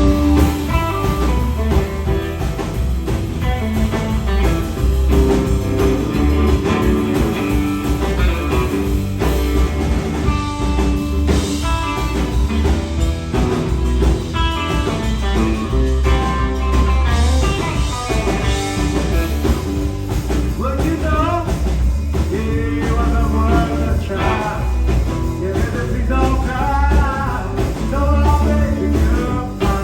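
Live blues-rock power trio playing loud: electric guitar, electric bass and drum kit, with a heavy, steady bass-and-drum groove under the guitar.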